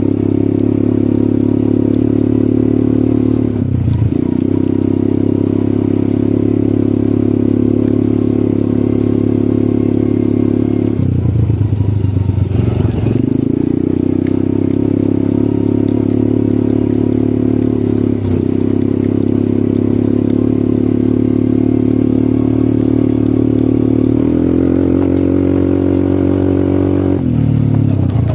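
ATV engine running steadily under way, its note breaking and shifting in pitch briefly a few times.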